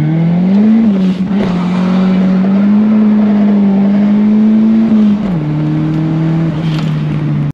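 Turbocharged 1.6-litre engine of a B13 Nissan Sentra, heard from inside the cabin while driving. The revs climb in the first second, hold steady, then drop about five seconds in.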